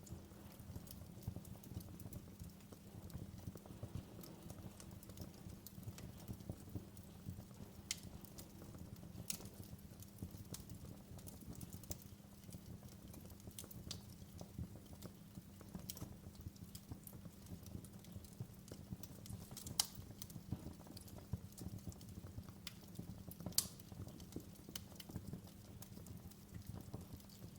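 Wood fire in a fireplace crackling: a steady low rumble of burning with frequent small irregular pops and a few sharper snaps.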